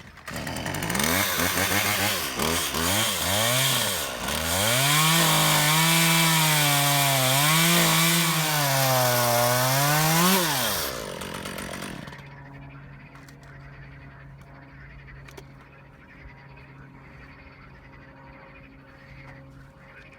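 Two-stroke chainsaw revving in short blips, then held at high revs cutting notches into a log, its pitch dipping repeatedly as the chain bites into the wood. The revving stops sharply about eleven seconds in, leaving a much quieter steady hum.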